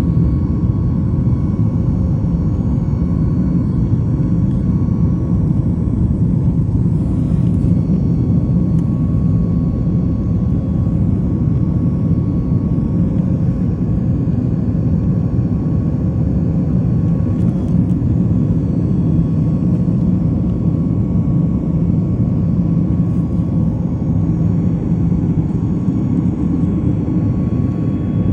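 Jet airliner during take-off, heard from inside the cabin: a steady, loud low rumble of engine and airflow noise with a faint constant hum over it.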